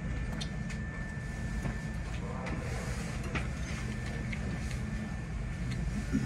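Steady low rumble inside the driver's cab of a Hankyu 8000 series electric train, with scattered light clicks and a faint steady high tone.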